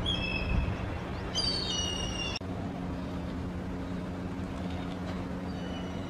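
Small birds giving high, clear whistled calls, several notes layered together. They cut off abruptly about two and a half seconds in, and a few faint notes follow later. A steady low hum runs underneath.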